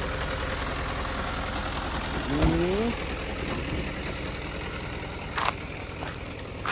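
Small truck's engine idling steadily, easing off slightly in the second half. A short rising voice call comes about two and a half seconds in, and there are a couple of sharp knocks near the end.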